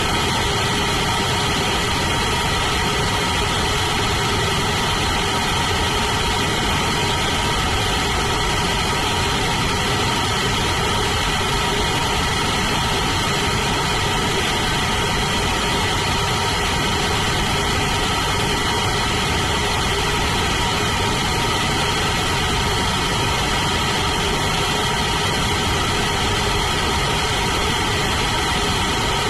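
Blue Origin BE-4 methane rocket engine firing steadily on the test stand: a continuous loud roar with steady tones running through it, holding at one level without change.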